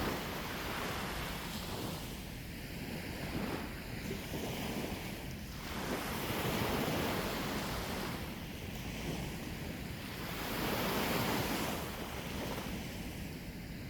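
Sea waves breaking and washing up a shore, the surf swelling and falling back every few seconds, with wind rumbling on the microphone.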